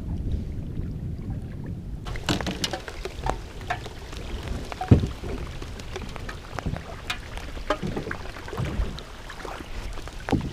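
Scattered raindrops ticking and tapping over a low wind rumble on the microphone; the rumble eases about two seconds in.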